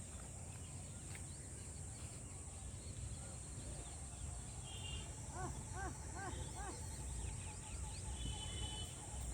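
Rural outdoor ambience: a steady high insect drone over low rumbling noise. About halfway through, a bird gives four short rising-and-falling calls in quick succession.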